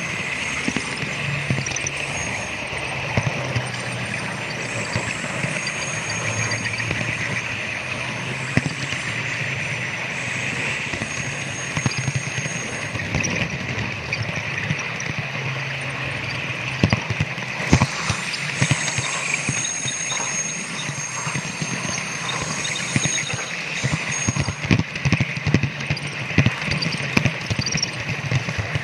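Model train running on a layout: a steady motor hum and wheel noise, with irregular clicks of wheels over the rail joints that come thicker in the last third.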